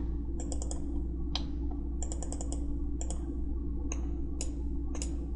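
Computer mouse and keyboard clicks: quick clusters of three or four clicks and single clicks scattered through, over a steady low hum.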